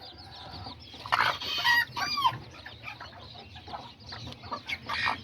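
Kikiriki bantam chickens calling: hens clucking and chicks peeping in short chirps, with one louder chicken call lasting under a second about a second in.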